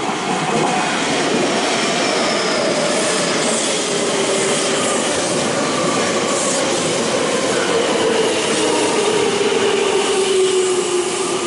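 Senboku Rapid Railway electric commuter train pulling into the station and slowing, its motor whine falling steadily in pitch over the rumble of wheels on rail.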